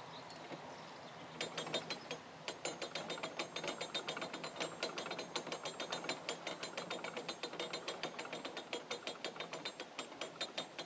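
Canal lock paddle gear being wound up with a windlass to raise a paddle and empty the lock: the pawl clicks over the ratchet in quick, even clicks. The clicking starts about a second and a half in, stops briefly, then runs on steadily.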